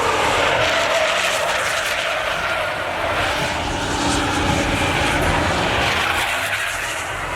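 Pickup truck doing a burnout: engine held at high revs while the rear tyres spin and skid on the pavement, a loud, steady rush of tyre noise.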